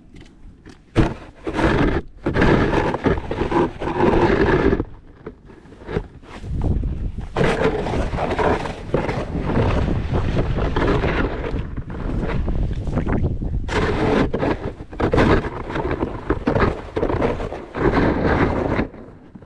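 Snow shovel scraping across the driveway in long pushes, with short pauses between them.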